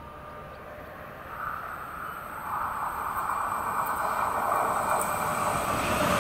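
Appenzeller Bahnen ABe 4/12 narrow-gauge electric railcar approaching and passing close by, the running noise of its wheels on the rails growing steadily louder.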